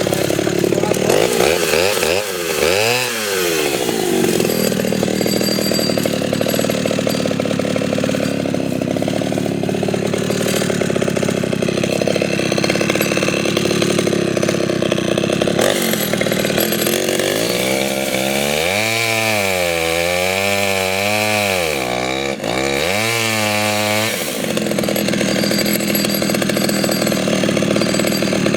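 Pioneer P20 two-stroke chainsaw running at high revs, cutting wood. Its engine note drops and climbs again about three seconds in, then falls and rises several times near the end as the throttle is eased off and opened again.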